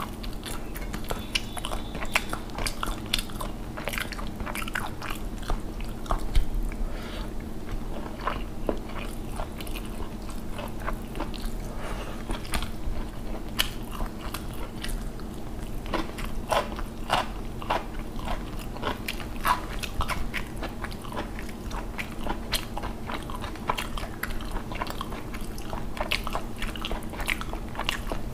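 Close-miked chewing of rice and fish curry eaten by hand, with many short wet mouth clicks and crunches throughout and fingers working the rice on the plate. A steady low hum sits underneath.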